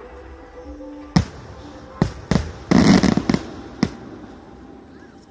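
Aerial fireworks shells bursting: a sharp bang about a second in, two more around two seconds, a dense rapid volley of bangs near three seconds that is the loudest part, and a last single bang near four seconds.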